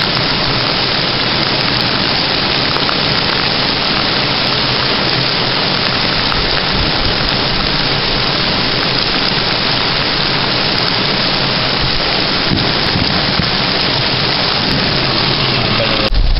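Heavy thunderstorm rain falling in a loud, steady, dense hiss. It cuts off abruptly at the very end.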